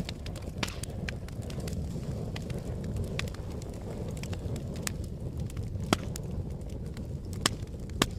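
Wood fire burning with a low steady rumble, broken by scattered sharp crackles and pops, the loudest about six seconds in and near the end.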